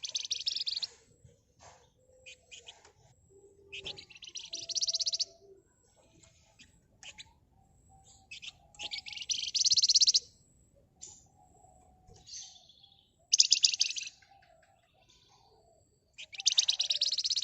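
Javan fulvetta (flamboyan, wergan Jawa) singing in repeated dense, rapid rattling trills, five bursts of a second or so each, with short high chirps between them.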